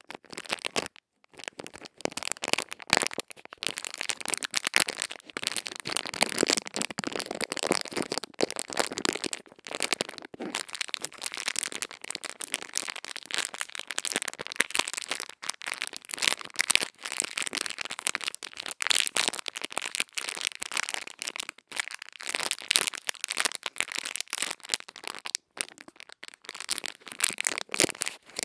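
Close-miked ASMR ear-cleaning sounds: dense, crisp crackling and scratching, with rapid irregular clicks and brief pauses, from tools working at an ear or an ear-shaped microphone.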